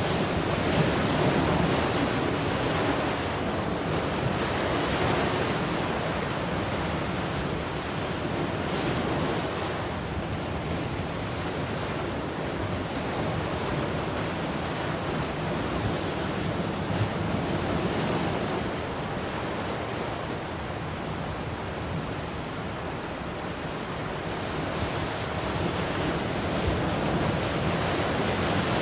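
Ocean waves breaking and washing in a continuous hiss of surf, swelling in the first seconds, easing in the middle and building again near the end.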